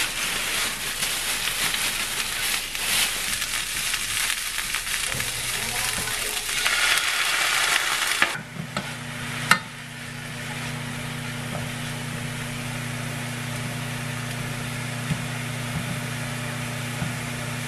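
Shredded cabbage sizzling in a hot frying pan as it is tipped in from a plastic bag, with rustling. About eight seconds in the sound changes to a quieter, steady sizzle under a low steady hum, with a few faint clicks.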